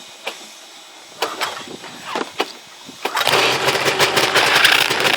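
Ski-Doo Skandic snowmobile engine cold-started on the pull rope: a few knocks and clicks, then about three seconds in it catches on the first pull and keeps running steadily.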